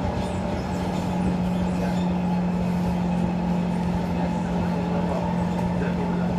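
Singapore MRT train running, heard from inside the carriage: a steady running rumble with a constant low hum.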